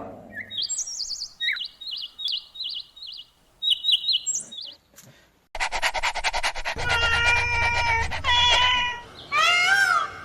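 A small bird chirping in short, high, repeated notes. About halfway through, a louder animal call cuts in with a fast buzz, followed near the end by calls that rise and fall in pitch.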